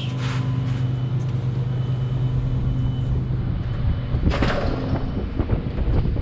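Semi truck's diesel engine idling, a steady low hum, with a brief burst of hiss about four seconds in.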